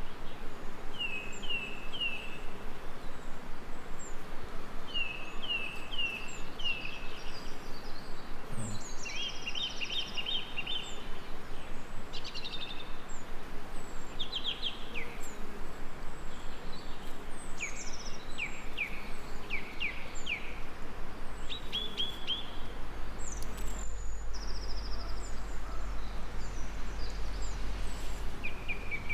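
Several songbirds chirping and trilling in short repeated phrases over a steady background hiss, with a low hum coming in about two-thirds of the way through.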